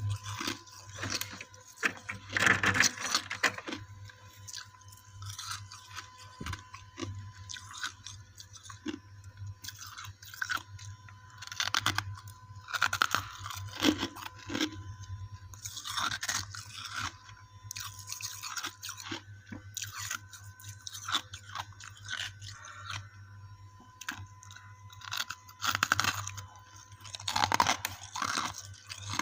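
Frosty ice chunks being bitten and chewed close to the microphone: irregular crisp, squeaky crunches all the way through, over a faint steady electrical hum.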